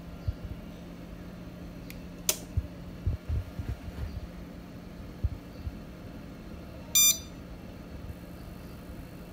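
A single short electronic beep about seven seconds in, over a steady low hum, with scattered low knocks and a sharp click a couple of seconds in.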